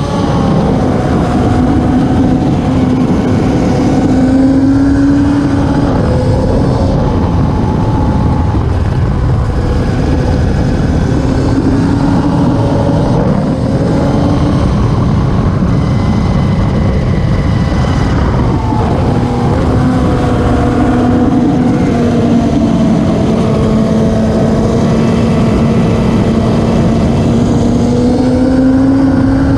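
Classic superbike racing motorcycle engines running hard at high revs, their pitch sliding up and down with throttle and gear changes.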